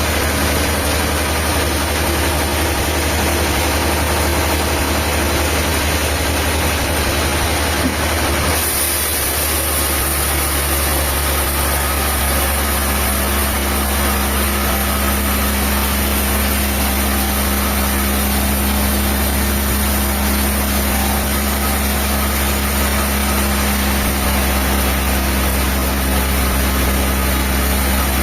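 Diesel engine of sawmill machinery running steadily, its note changing about eight seconds in.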